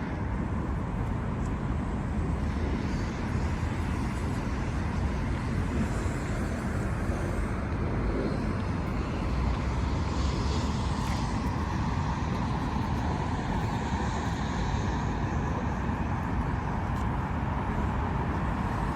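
Steady road traffic noise: a constant low rumble of passing vehicles, with no single engine or event standing out.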